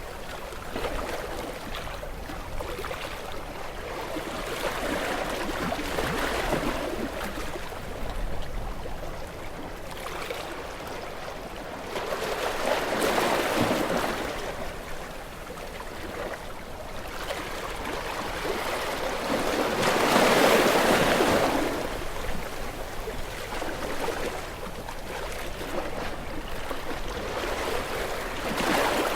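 Gentle sea waves washing onto a shore, each surging in and fading back about every seven seconds, the strongest about two-thirds of the way through.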